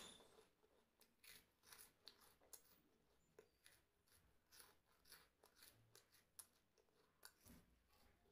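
Faint, irregular crisp clicks and crackles of someone chewing crunchy food.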